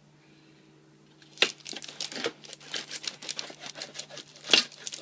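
Homemade pizza being cut and pulled apart into slices: crackly scraping and tearing of the crust, with sharp knocks about a second and a half in and again near the end.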